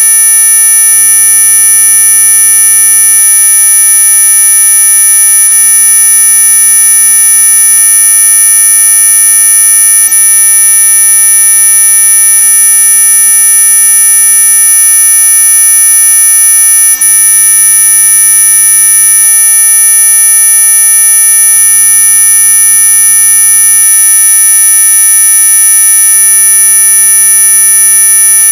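Synthetic anti-mosquito 'ultrasonic' repellent tone: a loud, steady, high-pitched electronic buzz made of several pure tones sounding together, the highest ones strongest, held without change.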